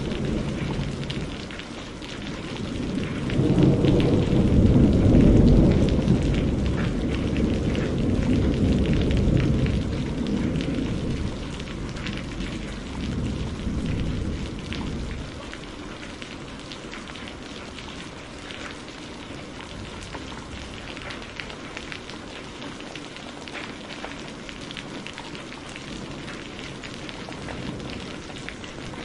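Steady rain with a long roll of thunder that swells a few seconds in, peaks, and fades away over about ten seconds. After that the rain goes on alone.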